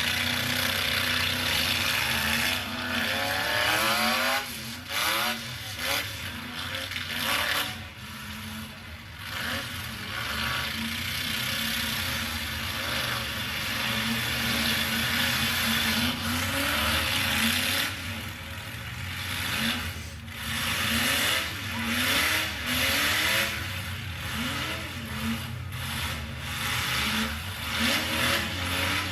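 Demolition-derby truck engines revving up and down again and again over a dense roar, with occasional sharp bangs and scraping of metal against metal as the trucks collide.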